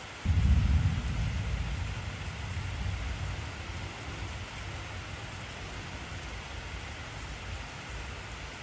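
Thunder over steady heavy rain: a deep rumble breaks in suddenly just after the start, is loudest for the first second, and dies away over the next several seconds while the rain hiss continues.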